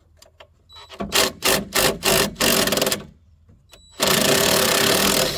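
Power tool with a socket spinning off rusty exhaust bolts and nuts: several short bursts, then one longer continuous run near the end.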